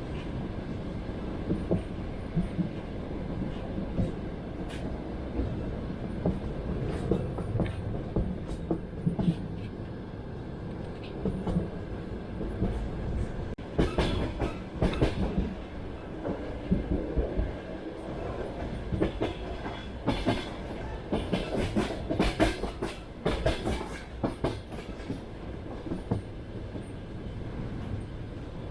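Passenger train running on rails: a steady low rumble of wheels and carriage with scattered clicks. About halfway through, a run of louder, irregular clacks and knocks lasts around ten seconds, as the wheels cross rail joints or points.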